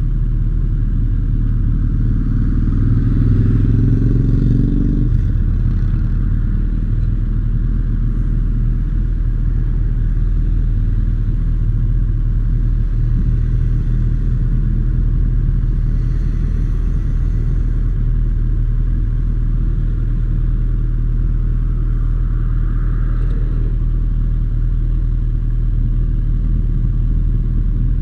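Motorcycle engine idling steadily with a low rumble. A vehicle engine note rises in pitch from about one second in and cuts off about five seconds in.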